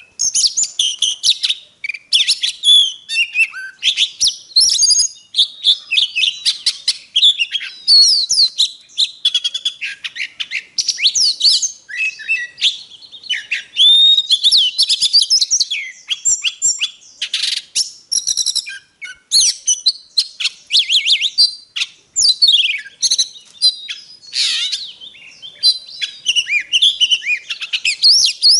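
Oriental magpie-robin singing a long, varied song of rapid whistles, trills and sliding notes, with only short breaks.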